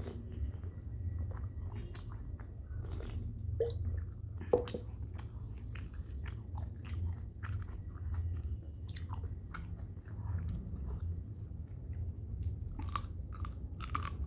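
A person chewing and biting into chicken and rice close to the microphone: irregular small crunches and clicks over a steady low hum.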